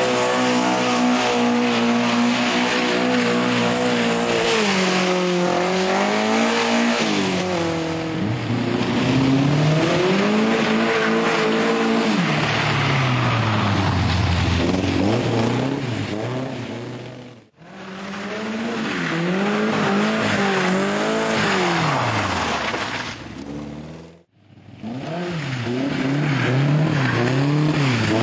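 Škoda 130 GL's rear-mounted four-cylinder engine revving hard as the car drifts on wet tarmac, its pitch repeatedly rising and falling with throttle blips, over a hiss of tyre and road noise. The sound cuts out abruptly twice, about two-thirds of the way through and again near the end.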